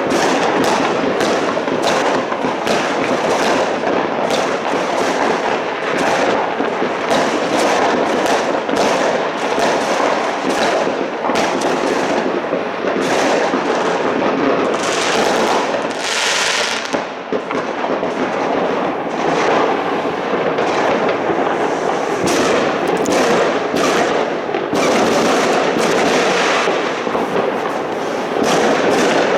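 New Year's Eve fireworks going off all around: a dense, unbroken barrage of overlapping bangs and crackles, with a brief rush of high hissing about halfway through.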